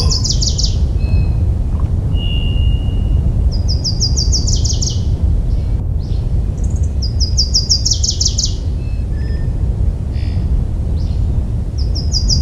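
A songbird singing short phrases of rapid, high repeated notes that step down lower at the end, about every four seconds, over a steady low rumble.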